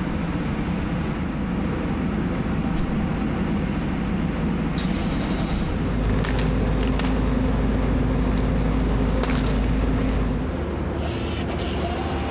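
An engine running steadily, growing louder with a steady hum from about six to ten seconds in, with a few sharp cracks mixed in.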